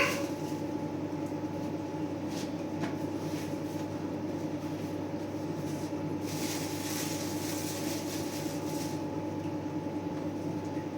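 Steady mechanical hum with a couple of constant tones running through it, even in level throughout, with a faint tick or two.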